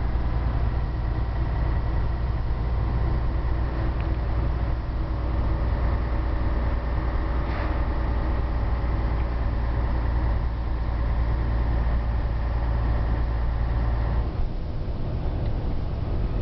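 Scania 113H truck's 11-litre six-cylinder diesel engine running steadily under way with a deep, even drone. About two seconds before the end the deep engine note drops off suddenly.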